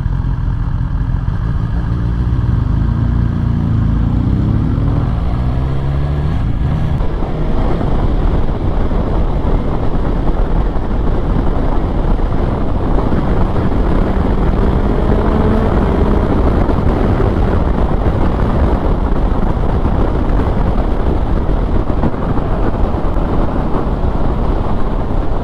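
BMW S1000XR's inline-four engine accelerating, its pitch rising through a couple of upshifts in the first few seconds, then cruising under heavy wind rush on the rider's microphone.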